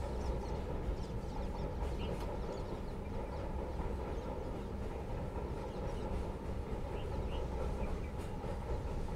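Steady low rumble of a train, with faint short high chirps here and there.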